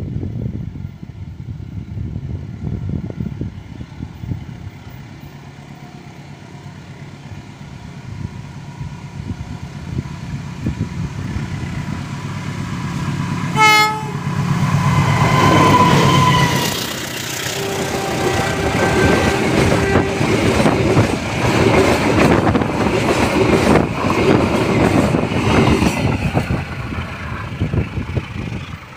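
A diesel-hauled passenger train passing close: the engine drone grows as it approaches, a short horn blast sounds about halfway through, then the wheels clatter over the rail joints as the coaches go by, fading just before the end.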